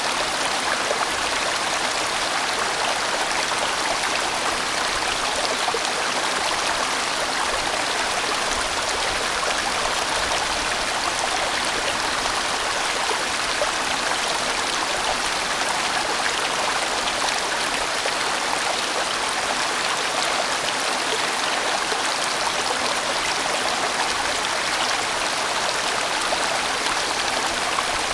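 A large, winding valley stream flowing in a steady, even rush of water.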